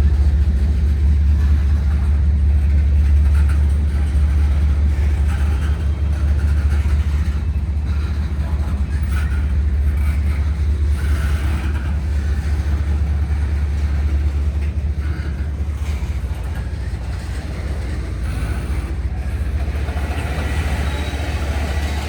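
Cars of a long Norfolk Southern freight train rolling past on the rails: a loud, steady low rumble with occasional brief squeaks and clanks from wheels and couplers.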